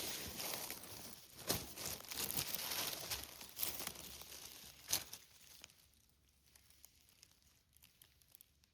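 Rustling and crackling of forest-floor litter, with sharp crunches for about five seconds. It then dies away to faint scattered ticks.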